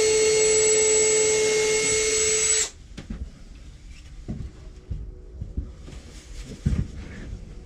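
Power drill running at a steady speed, stopping suddenly about two and a half seconds in, followed by a few light knocks of wood being handled.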